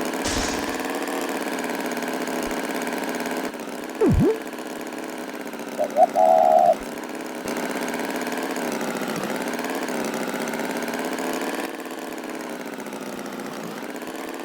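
Cartoon tractor engine idling steadily, a slightly wavering hum. About four seconds in comes a quick swooping sound effect that falls and rises again, and around six seconds a short higher-pitched call.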